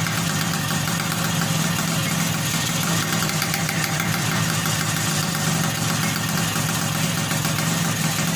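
Suzuki Satria two-stroke motorcycle engine idling steadily, just brought back to running after repair.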